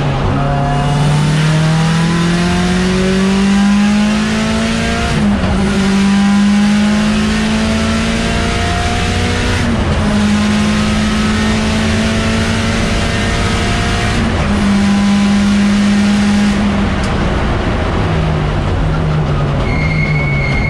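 Mitsubishi Lancer Evolution X race car's turbocharged four-cylinder engine at full throttle, heard from inside the stripped cabin. The engine note climbs, breaks briefly about five, ten and fourteen seconds in, then drops lower. A thin high squeal comes in near the end.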